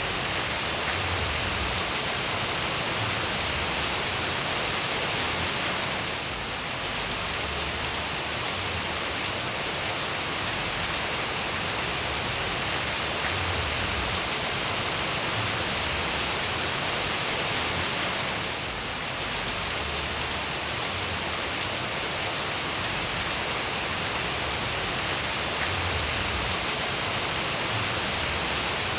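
Steady rainfall: a dense, even hiss of rain with no single drops standing out. The level dips briefly twice, about six and nineteen seconds in.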